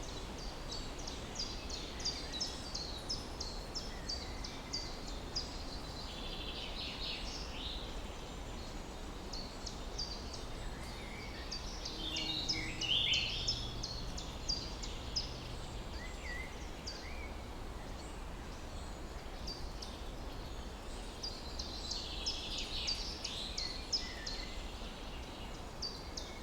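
Songbirds chirping outdoors: one bird repeats quick, high, thin chirps in long runs, and others sing louder, fuller phrases three times. A steady low background rumble lies under the birdsong.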